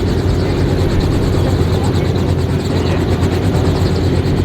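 Dirt bike engine running hard while riding, with a steady loud drone and a fast flutter of wind noise over the microphone.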